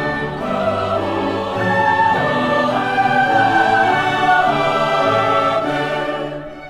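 Symphony orchestra playing classical holiday music with operatic singing, the voices held in wide vibrato; the music dies away near the end.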